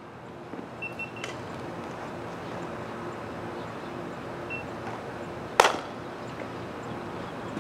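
Distant CN freight train approaching, a faint steady rumble and hum. A single sharp crack about five and a half seconds in is the loudest sound.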